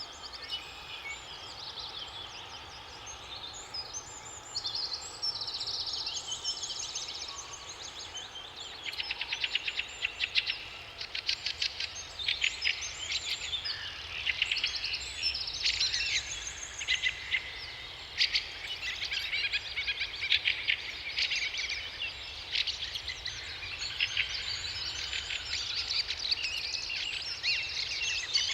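Several songbirds singing at once, overlapping phrases and rapid trills that get busier about a third of the way in, over a steady low rush of water.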